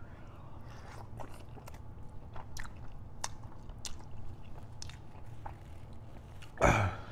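Biting into and chewing a sauced buffalo chicken wing: a run of short wet mouth clicks and smacks, with one louder smack near the end.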